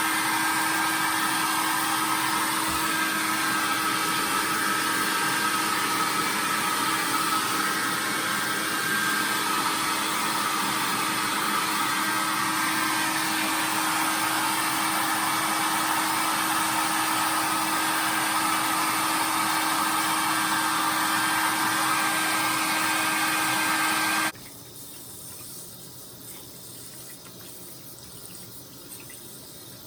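A steady motor whir with a rushing hiss, which cuts off suddenly near the end, leaving a much quieter hiss.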